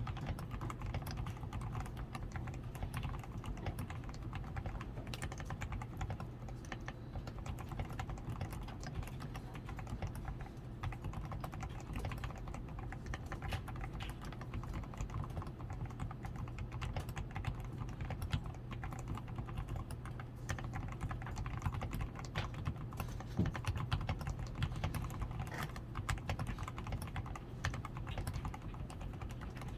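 Continuous typing on a DAREU A87 Pro mechanical keyboard, a steady, uneven run of keystrokes. The keyboard is fully lubed with Krytox 105 and tape-modded, with switch films, lubed stabilisers and XDA keycaps, which give it a muted, damped keystroke.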